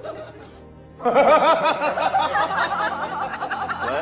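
Laughter breaking out about a second in and running on in quick repeated bursts, over background music.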